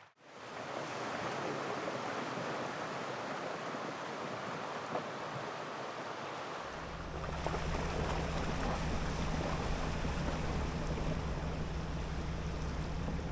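A steady rushing noise, like wind or surf, joined about seven seconds in by the low, steady hum of a running vehicle engine.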